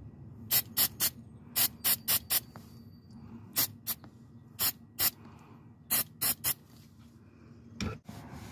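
Aerosol carb cleaner sprayed in about a dozen short, quick hisses, cleaning the parts where the new neutral switch sensor will fit.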